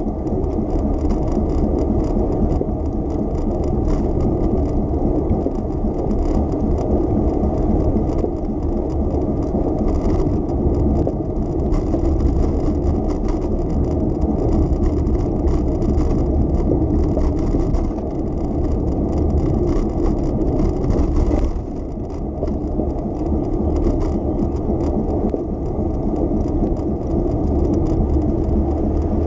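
Steady low rumble and rattle of a bicycle rolling along a city street, its tyres on the road surface and the bike's parts rattling. The noise drops briefly about two-thirds of the way through.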